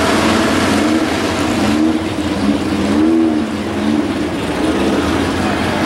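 Drag cars' engines idling at the starting line, the pitch rising and falling a few times in the middle as the throttle is blipped.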